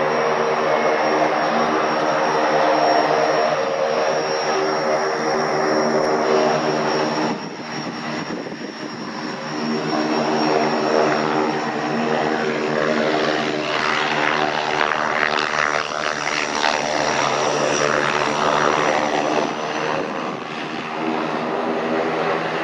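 Antonov An-24 twin turboprop engines running close by, a steady propeller drone with a thin high turbine whine above it. The sound eases briefly about a third of the way in, then comes back strong.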